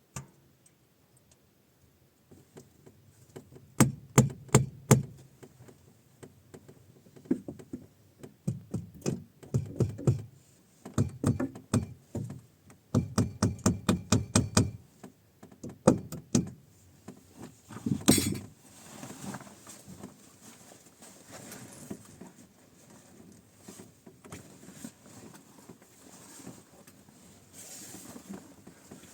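Irregular knocks, clicks and thunks of hard objects being handled, in clusters, with one louder knock about eighteen seconds in, then fainter scattered rustling.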